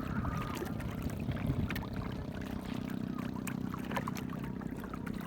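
Small boat's engine running steadily, with water noise from the hull.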